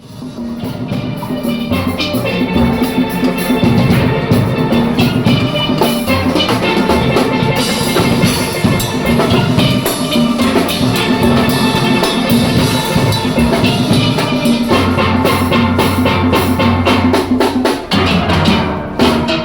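Steel orchestra playing: many steelpans sounding a fast melody and chords over a drum kit and percussion rhythm section. The music comes up from silence right at the start.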